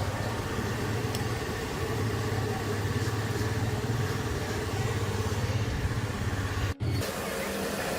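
A motor running steadily with a low hum. It cuts out for an instant about seven seconds in, then carries on.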